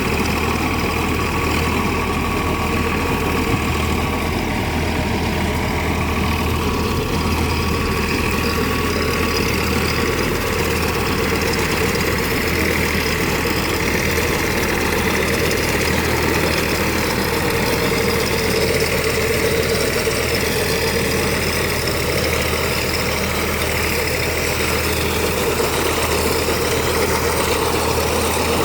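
Tractor engine running steadily, driving a mounted reaper, with no change in speed.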